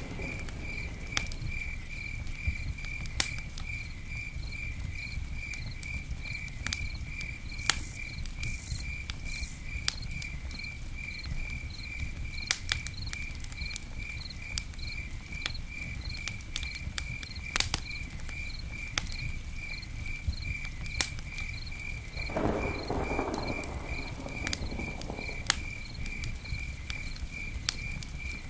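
Campfire crackling, with scattered sharp pops of burning wood over a low rumble. A cricket chirps in a steady, rapid pulse behind it.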